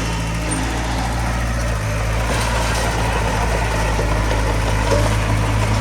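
Heavy diesel engine of earthmoving equipment running steadily, its low hum holding a constant pitch.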